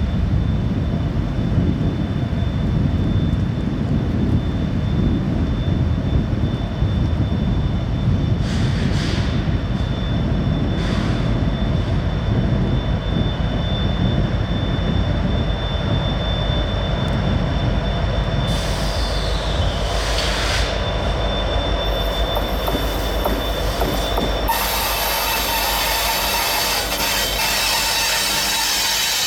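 A slow freight train passing on a curve. A deep diesel locomotive rumble dominates at first. Then the freight cars roll by with steel wheels squealing against the rail, in short squeals at first, turning into a continuous shrill multi-tone squeal about 24 seconds in.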